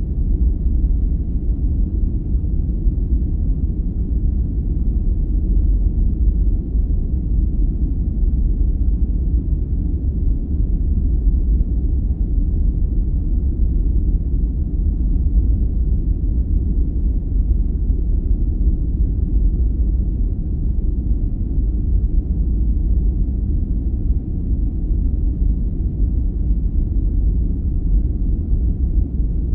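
Steady, deep noise played as a sleep aid: a dull, even rumble with its weight in the bass and no high hiss.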